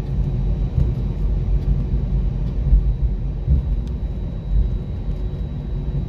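Steady low rumble in the cabin of a British Airways Airbus A320 rolling on the ground after touchdown, with a few faint rattles and a thin high whine.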